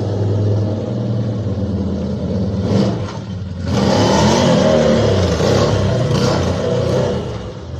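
A car engine running steadily, turning louder and fuller about halfway through.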